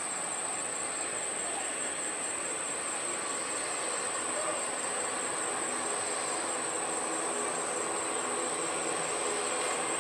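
Steady distant jet airliner engine noise, slowly growing louder, over a constant high-pitched insect drone.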